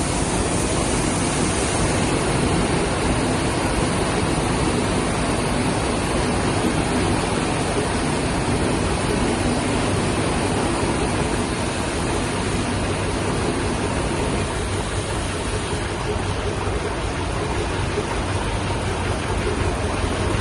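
Steady, loud running noise of large old stationary engines, a dense even din with no distinct beat standing out.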